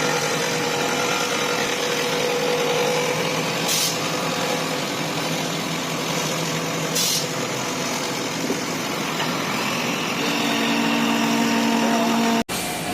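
A machine running steadily with a noisy hum and a few held tones, which change about ten seconds in; the sound cuts off abruptly near the end.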